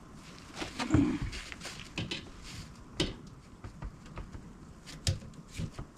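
Scattered clicks and knocks from hands working with tools and parts, with a louder thump about a second in.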